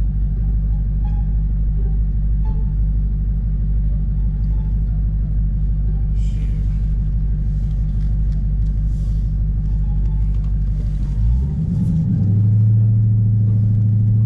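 Dodge Scat Pack's 6.4-litre HEMI V8 running while the car is driven, a steady low rumble; about eleven seconds in the engine note steps up in pitch and gets louder.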